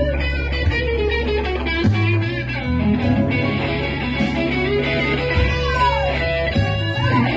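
Electric guitar playing an improvised minor blues solo, with notes bent up and down near the end, over sustained low bass notes.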